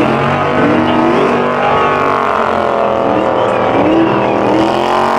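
Muscle-car engines revving hard and held at high revs, their pitch swinging up and down, as in burnouts or donuts, with some tyre squeal.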